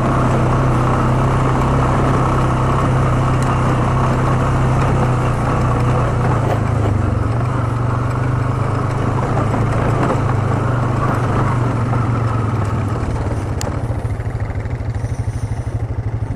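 ATV engine running steadily under way as the quad rides up a gravel trail, heard from on board. It eases off near the end into slower, more distinct firing pulses.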